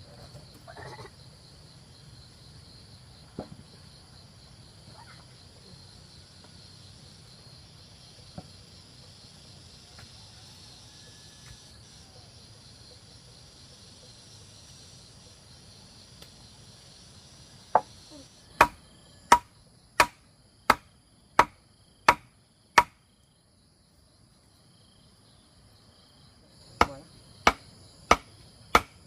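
Sharp, evenly spaced chopping blows, about one and a half a second: a run of about eight starting about two-thirds in, a short pause, then more near the end. Before them, a steady chirring of insects.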